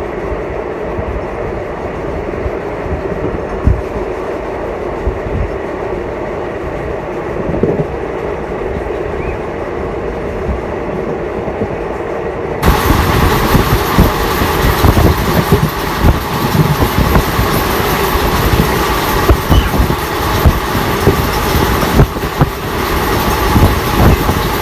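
Passenger train running on the track, its wheels clattering over the rail joints with a steady rumble and irregular knocks. About halfway through the sound turns suddenly louder and brighter.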